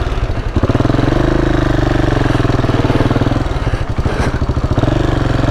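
KTM 690 Enduro's single-cylinder engine running under throttle as the bike rides across beach sand. The throttle eases off briefly about half a second in and again around three and a half seconds in.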